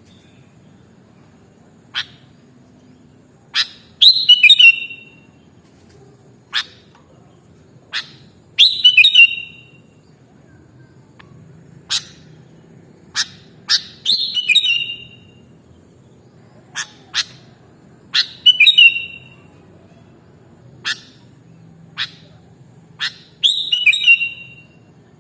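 Sooty-headed bulbul (kutilang) singing: sharp single call notes scattered between short, quickly repeated whistled phrases that fall in pitch. A phrase comes about every five seconds.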